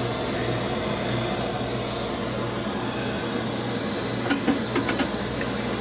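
Steady hum and whir of running laundromat dryers, with a few sharp clicks of metal handling about four to five seconds in.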